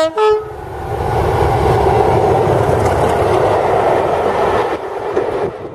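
Train horn giving two short notes, the second higher and a little longer, then the train passing close by with a loud, steady rumble of wheels on the rails that fades near the end.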